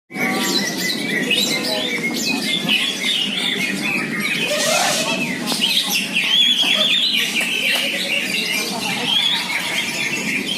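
Several greater green leafbirds (cucak ijo) singing at once in a dense run of quick chirping and whistled phrases, over a steady murmur of people's voices.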